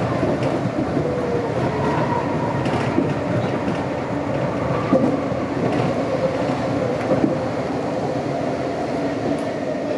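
Meitetsu 100 series electric train running along the track, heard from inside the front car: a steady rumble of wheels on rail with a faint hum, and a few sharp clicks of the wheels passing over rail joints.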